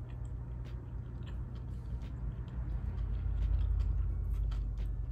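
A person chewing a mouthful of sandwich, with faint soft mouth clicks over a steady low hum.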